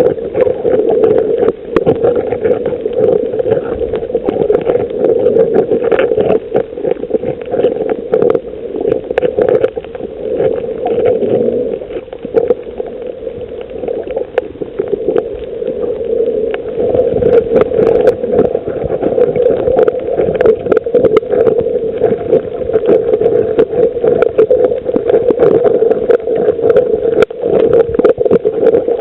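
Underwater sound on a coral reef: a dense, continuous crackle of short clicks over a steady droning hum, dipping a little about halfway through.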